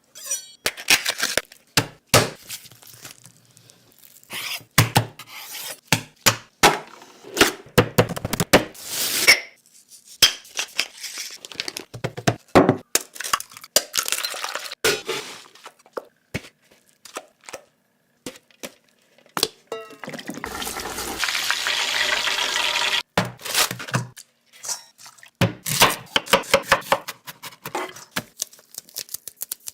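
Food-preparation sounds: utensils, bowls and dishes clinking and knocking in many short hits, with a steady hiss lasting a few seconds about two-thirds of the way through.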